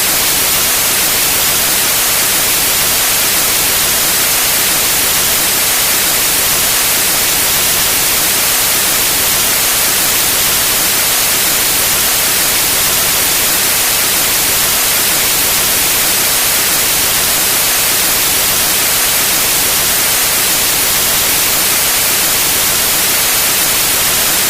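Steady synthesized white noise: an even hiss across all pitches, brightest in the treble, with no change in level.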